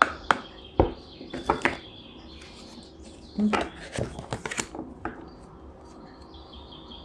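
Oracle cards being shuffled and handled: a run of sharp card clicks and short riffles, a handful at first, then a denser cluster midway. Birds chirp faintly in the background.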